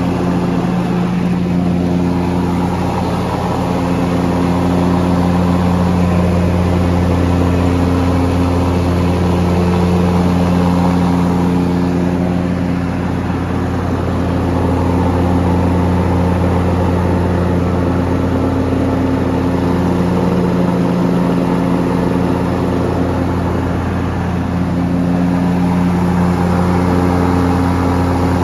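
John Deere Z320R zero-turn mower's engine running steadily at set throttle with the mower blades engaged, washing out the deck. The level slowly swells and fades a few times.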